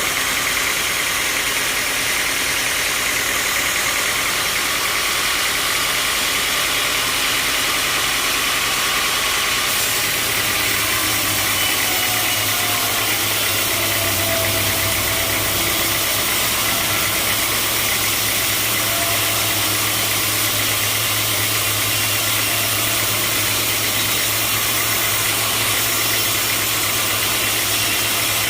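Sawmill machinery running steadily, a loud even mechanical noise. About ten seconds in a steady low hum joins it.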